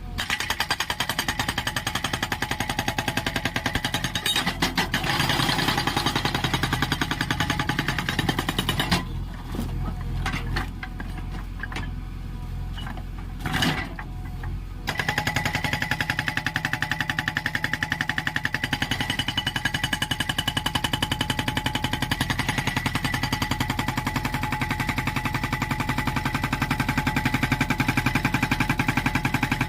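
A JCB 3DX backhoe loader's hydraulic breaker hammering in rapid, even blows over the running diesel engine. The hammering stops for several seconds midway, leaving the engine running with a couple of single knocks, then starts again and keeps going steadily.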